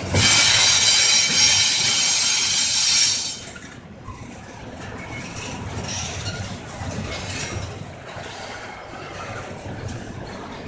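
Intermodal freight train passing: a loud, high-pitched steel wheel squeal starts suddenly and lasts about three and a half seconds, then cuts off, leaving the quieter rolling rumble and clicks of the cars on the rails.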